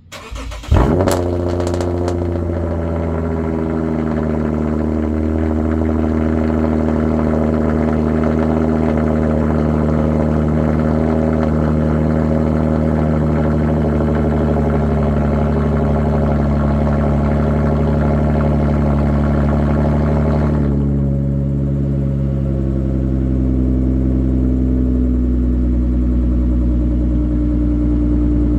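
2013 Lexus GS350's 3.5-litre V6, straight-piped behind the primary catalytic converters, cranking briefly and catching with a loud burst, then idling steadily and loud. About twenty seconds in, the idle drops a little and the exhaust note turns duller.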